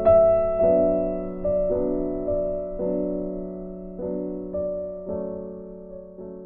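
Background music: slow, gentle piano, notes and chords struck about every half second over a held low note, each fading away, the whole dying down near the end.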